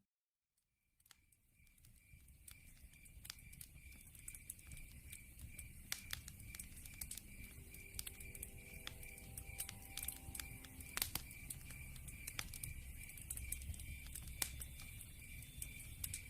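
Log fire crackling, with scattered sharp pops and snaps over a low rumble and one loud snap about two-thirds of the way through. A cricket chirps steadily, about twice a second. All sound cuts out briefly at the start and fades back in over the first couple of seconds.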